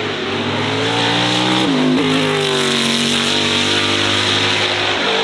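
Racing car engine under hard acceleration. The revs climb, drop sharply about a second and a half in at a gear change, then hold high as it pulls on.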